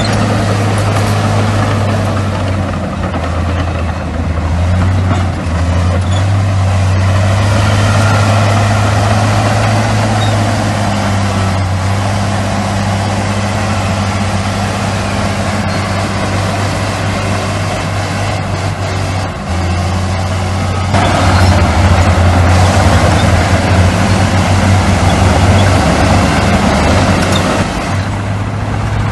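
Heavy diesel engines of earthmoving machinery, dump trucks and a bulldozer, running steadily with a deep engine note. About two-thirds of the way through, the sound gets louder and fuller, as if a machine is working harder or coming closer.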